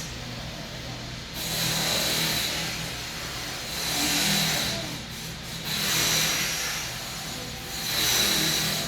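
A person breathing slowly and deeply through the nose in pranayama practice: four long hissing breaths, each swelling and fading over about a second and a half.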